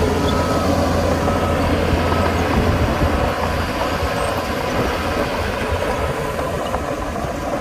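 Diesel engine of heavy earthmoving equipment running with a low rumble, with a reversing alarm beeping regularly, a little faster than once a second. The beeps fade over the first half and the rumble eases after about three seconds.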